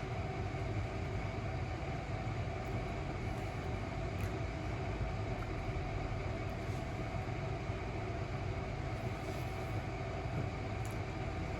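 Steady low mechanical hum and rumble, even throughout, with a few faint steady tones above it.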